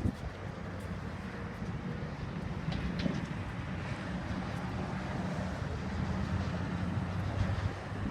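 Twin-turbocharged Harley-Davidson FXDR's 114 cubic inch V-twin engine running steadily at an even speed.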